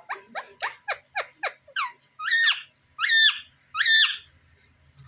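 Pet Indian ringneck parrot calling: a quick run of about eight short, downward-sliding squawks, about four a second, then three louder, longer screeches about a second apart.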